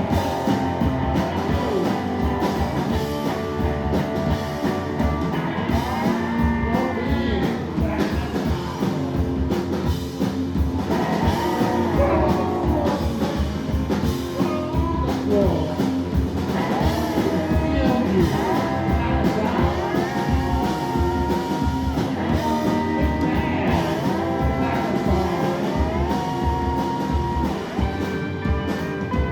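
Live rock band playing a song: electric guitar with notes that bend and glide, over a driving drum-and-bass beat.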